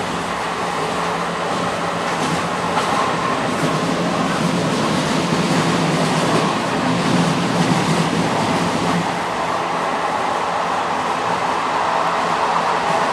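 Moving passenger train heard from on board: a steady running rumble and rail noise, with a few faint wheel clicks over the rail joints early on.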